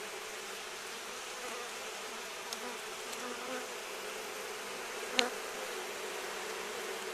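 Honeybee colony buzzing steadily at the hive, an even hum. A single sharp click about five seconds in.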